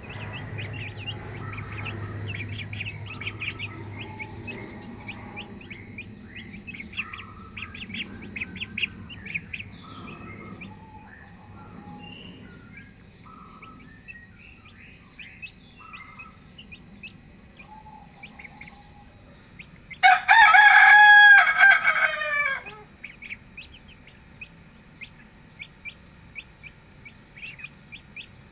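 Poultry calling, with short high chirps repeating throughout and some clucking. About two-thirds of the way in, a rooster crows once, loud and about two and a half seconds long, its pitch falling at the end.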